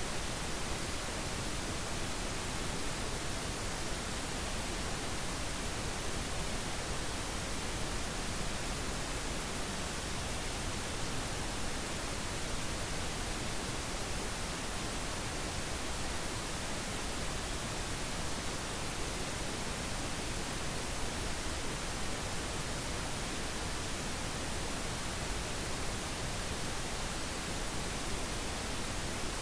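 Steady synthetic pink noise: an even, unchanging hiss spread across all pitches, without breaks or events.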